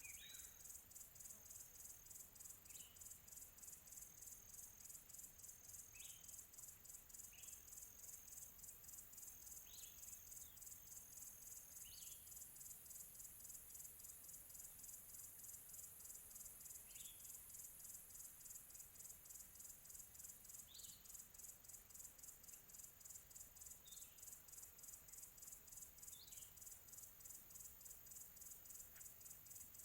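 Faint, steady high chirring of an insect chorus, crickets, pulsing rapidly throughout. Short bird chirps break in every second or few.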